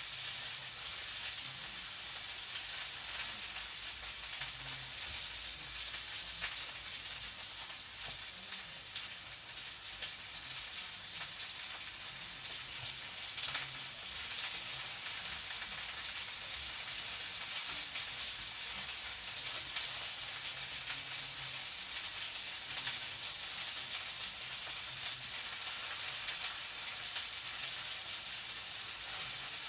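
Food frying in a pan: a steady sizzling hiss with faint scattered crackles.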